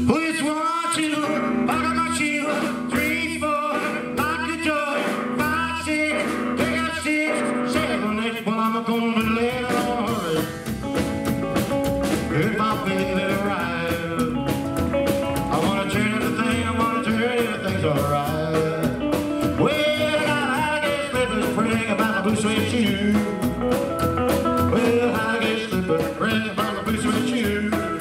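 Live rockabilly band playing: electric guitar, double bass and drums. The low bass comes in fully about nine seconds in.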